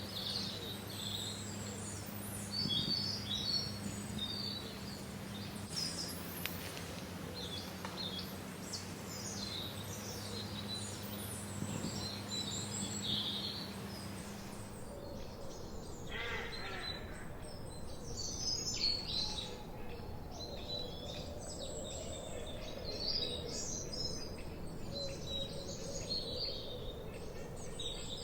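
Several songbirds chirping and singing in overlapping short calls and trills, a forest dawn-chorus-like ambience. A low steady hum underneath stops about halfway through, and the background changes there.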